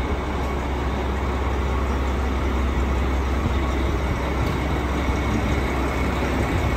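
Steady low rumble and hum of a train idling at a station platform, with even background noise.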